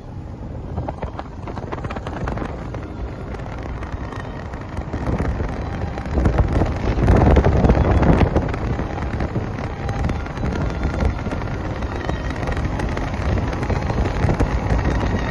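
Wind buffeting the microphone: low, unpitched noise that swells and eases in gusts, strongest about halfway through.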